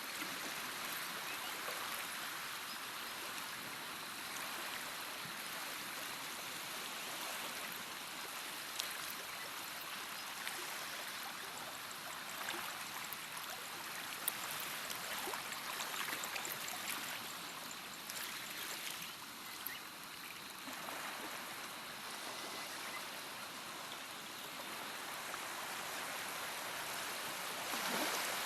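Flowing water of a stream, a steady rushing wash with small splashes and trickles rising and falling now and then.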